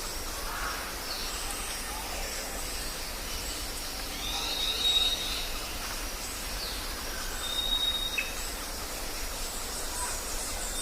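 Jungle ambience: a steady background hiss with birds calling, including a long high whistle about four seconds in and another, shorter one near eight seconds, amid scattered chirps.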